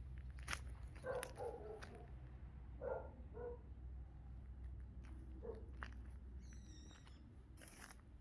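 A dog giving a few short, faint barks, about a second in, around three seconds and again near five and a half seconds, over a steady low rumble.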